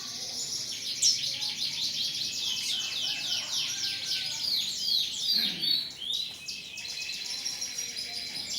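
Several domestic canaries singing at once: continuous fast trills and rapid downward-sweeping chirps.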